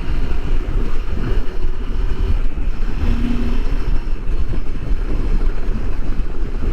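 Wind buffeting the microphone on a moving motorcycle: a loud, constant, fluttering rumble.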